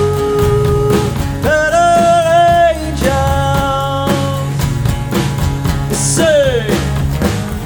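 Punk rock band playing live: drums, bass and electric guitars, with a few long held melody notes that slide in and out of pitch over the steady beat.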